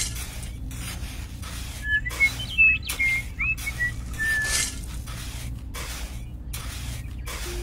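A bird's short whistled chirps, a quick run of notes for about two seconds in the middle, over a miniature metal shovel scraping repeatedly through sand.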